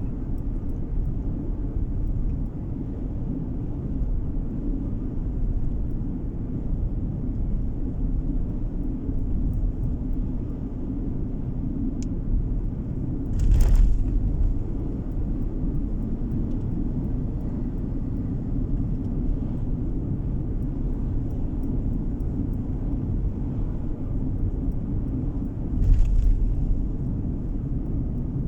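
Steady low rumble of road and engine noise inside a moving car, with two brief louder swells, one about halfway through and one near the end.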